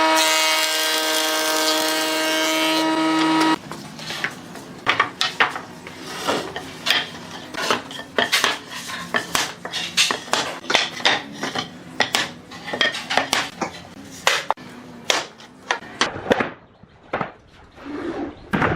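A power tool whines steadily at one pitch for about three and a half seconds, then cuts off suddenly. After that come many irregular clicks and knocks of tools working on wood.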